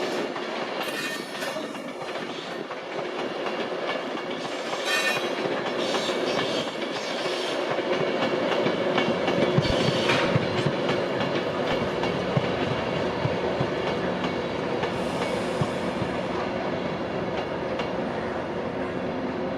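A train running along the rails, with the clickety-clack of its wheels over the track joints. It gets a little louder in the middle and then eases.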